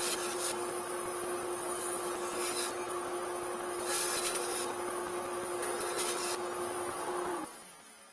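A workshop electric motor running steadily with a held hum, joined by short spells of rubbing hiss every second or so, then switched off about seven and a half seconds in, its noise dying away.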